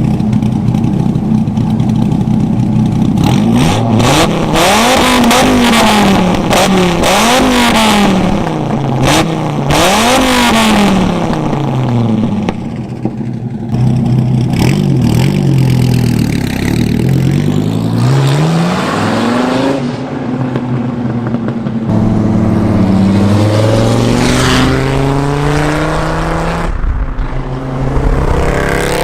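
2005 Dodge Viper SRT-10's V10 through a custom muffler-delete exhaust built around the crossover pipes. It idles for a few seconds, then is revved again and again, the pitch rising and dropping back about every second or two, with a longer, smoother climb near the end.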